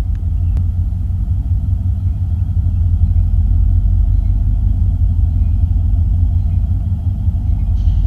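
Approaching freight train led by Union Pacific diesel locomotives: a loud, low rumble that slowly grows louder.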